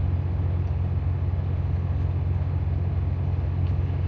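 Semi-truck diesel engine idling, heard inside the cab: a steady low hum with no change in pitch.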